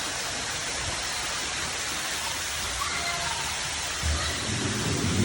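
Steady hiss of running, splashing water, with faint distant voices; a louder low rumble joins about four seconds in.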